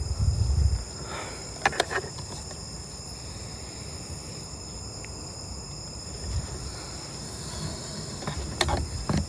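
Steady high-pitched chirring of night insects such as crickets. There is a low rumble in the first second, and a few sharp clicks come just before the 2-second mark and again near the end.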